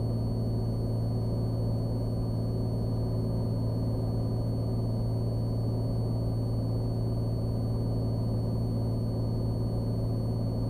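Cessna Skylane's single piston engine and propeller droning steadily as heard inside the cabin, with a thin high whine running under it. The engine is holding an even approach power while the aircraft descends on the glide path at about 300 feet per minute.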